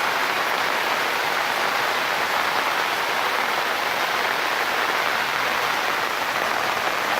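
Steady rain falling, a dense even patter that holds at one level throughout.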